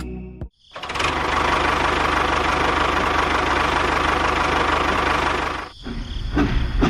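A small motor running steadily with a fast, even buzz for about five seconds, then cutting off, followed by a few irregular knocks and clatters.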